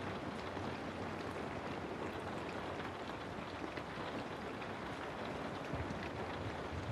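Steady rain falling on a house: a dense, even hiss with many scattered drop taps, over a faint low rumble.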